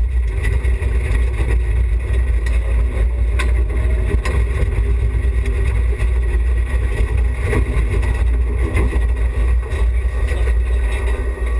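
Cabin noise of a BMW E30 316i rally car on a stage: its four-cylinder engine running under a heavy, steady rumble of road and body noise, with a few short knocks from the car.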